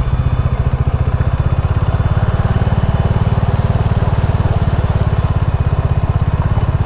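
Bajaj Dominar 400's single-cylinder engine running steadily at low speed, with a fast, even pulse.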